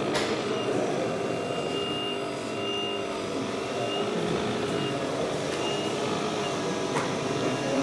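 RC model truck's electronic sound module playing a steady engine drone with a high reversing beep sounding over and over, amid background hubbub.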